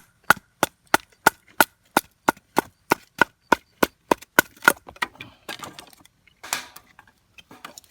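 Wood being chopped into kindling: a quick, even series of sharp knocks, about three a second, that stops near five seconds in. Irregular rustling of sticks follows, with a louder burst about six and a half seconds in.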